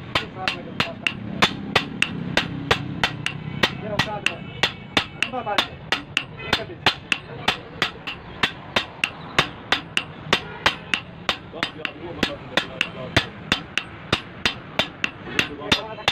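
Hand hammer striking a toka chaff-cutter blade in a steady run of quick blows, about three a second, each with a short metallic ring, as the blade is hammered into shape.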